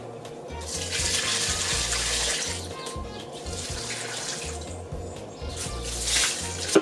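Water being poured out onto plants, rushing in three spells separated by short pauses, with a sharp knock at the very end.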